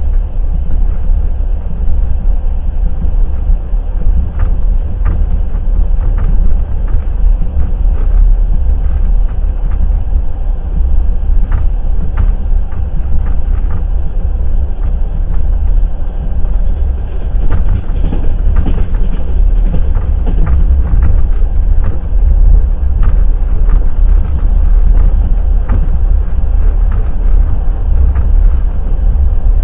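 Wheel clatter of a passenger express train (No. 202 Kovel–Kyiv) running along the track: a loud, steady low rumble with scattered sharp clicks and knocks from the wheels on the rails.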